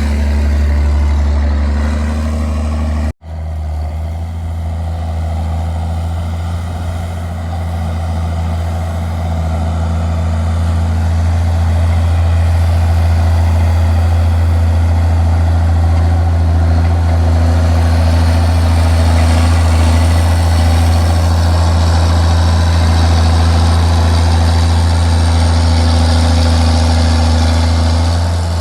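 Straight-piped John Deere 4630 tractor's six-cylinder diesel running steadily, with a deep, even exhaust drone. The sound cuts out for an instant about three seconds in, then carries on.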